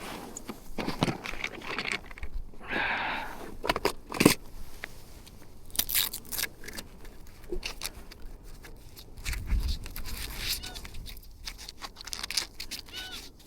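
Crinkling, scraping and clicking handling noises of gear being rummaged through and moved about, in irregular short bursts.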